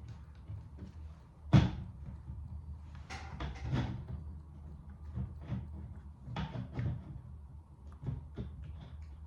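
Scattered knocks and clunks of hard objects being handled and set down, the loudest a sharp knock about one and a half seconds in, with clusters around three to four seconds and again near seven seconds.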